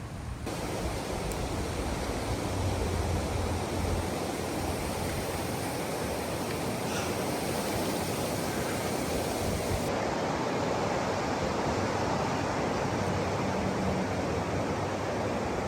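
Steady rushing noise. The highest part of the hiss drops away about ten seconds in.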